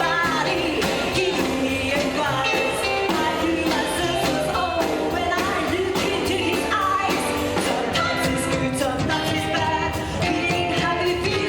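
Live rockabilly band music, with a singing lead over the band.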